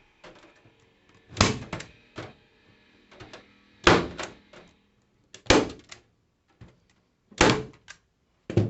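Hand staple gun firing staples through metal lath into a wood panel: five sharp clacks about a second and a half to two seconds apart, with small clicks of handling in between.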